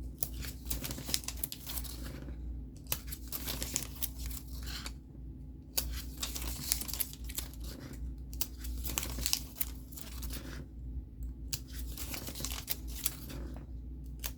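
Paper being handled: rustling, crinkling and tearing in repeated bursts with short pauses between them.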